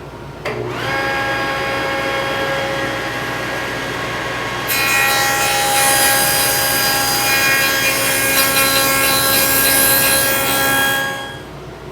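Table saw with a dado stack starting about half a second in and running with a steady whine. From about five seconds in it is louder and harsher as it cuts a wide notch across clamped cedar boards, and the sound stops shortly before the end.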